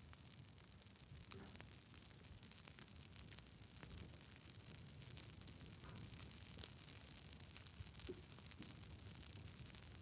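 Wood campfire burning: a faint steady hiss with frequent small crackles and pops.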